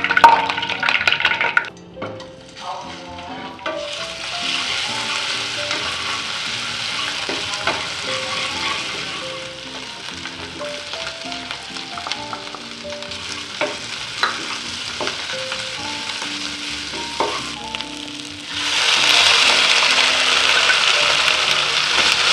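Spice paste frying in hot oil in a nonstick pan, sizzling steadily while a spatula stirs it, with occasional sharp scrapes and taps. The sizzle sets in about four seconds in and grows louder near the end.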